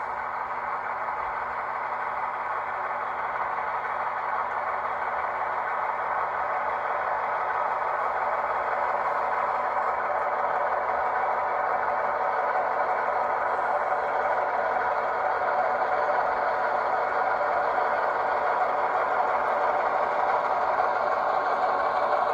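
Diesel locomotive engine running steadily, slowly getting louder as the locomotive shoves cars back at low speed.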